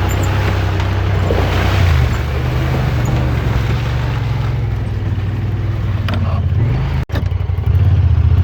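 Vehicle engine running steadily while driving on a rough back road, with wind and road noise over it. The sound drops out for a moment about seven seconds in, then the engine comes back louder.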